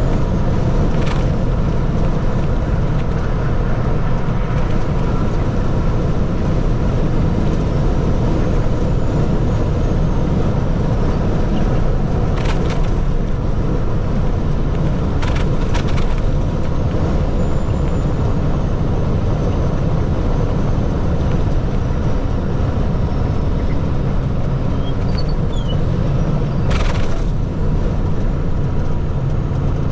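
Heavy water truck's engine and road noise heard as a steady low rumble while driving, with a few brief sharp clicks scattered through it.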